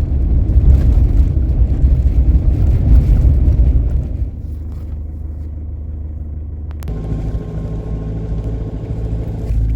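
Car driving with a steady low engine and road rumble, heaviest for the first few seconds, then steadier. A sharp click comes about seven seconds in, followed by an even engine hum.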